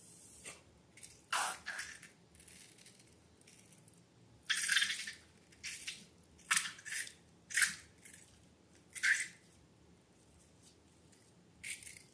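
Slime being squished and handled: about ten short, irregular wet squelches with a sticky crackle.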